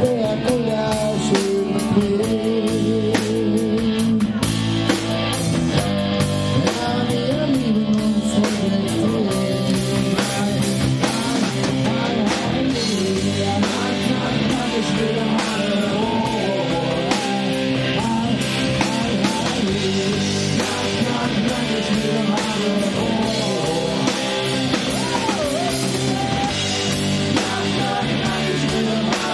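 Live rock band playing loudly and steadily, with guitar and drum kit.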